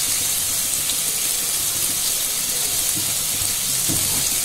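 Spiced onion-tomato masala frying in oil in a kadai, a steady high sizzle, as the paste is cooked down until the oil separates.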